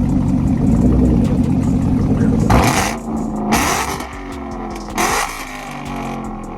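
A car with a catless exhaust revving hard and accelerating, its loud engine note holding for the first two and a half seconds. Three short harsh bursts follow as it pulls away and grows quieter.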